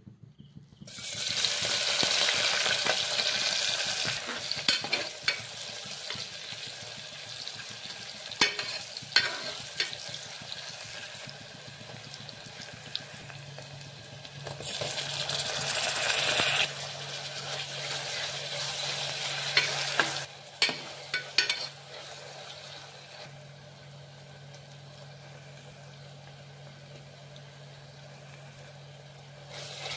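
Hot oil sizzling in an aluminium pressure cooker as sliced onions, green chillies and chopped tomatoes go in. The sizzle flares up loudly about a second in and again about halfway, with a few sharp clicks between. It then settles to a quieter, steady fry.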